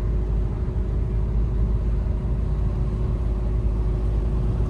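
Car driving along: a steady low rumble of engine and road noise, with a faint steady hum.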